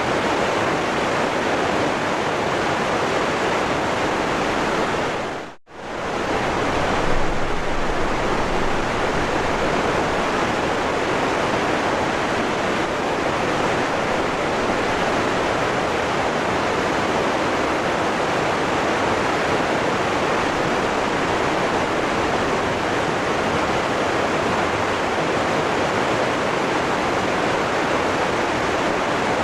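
Waterfall rushing, a steady roar of falling water. About five seconds in it fades to a brief gap and comes back, like an edit or loop join in the recording.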